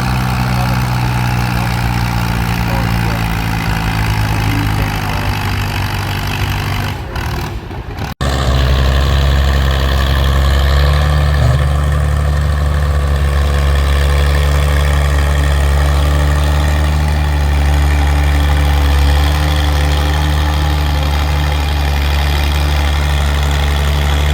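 Antique tractor engine running steadily. About eight seconds in the sound drops out briefly, then comes back louder and deeper with a heavier engine running steadily.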